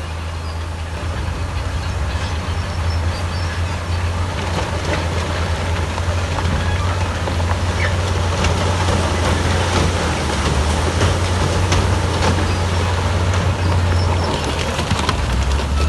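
Heavy earthmoving machinery at work: a large diesel engine running steadily under load, with scattered clanks and knocks.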